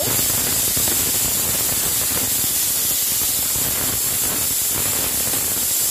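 Chicken pieces sizzling in a nonstick frying pan as they are stirred and dry-roasted with a wooden spatula: a steady, loud hiss that starts suddenly.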